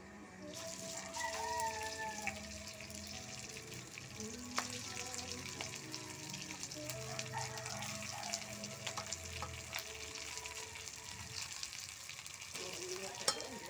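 Cooked rice and browned garlic sizzling in hot oil in a stainless steel wok, starting about half a second in, with a metal spatula clicking and scraping against the pan.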